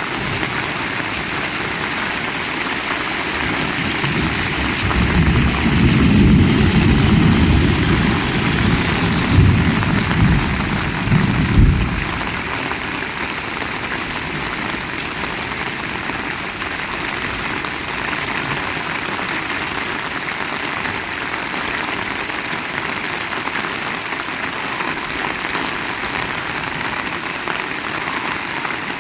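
Heavy rain falling steadily. A louder low rumble builds from about four seconds in and cuts off suddenly about twelve seconds in.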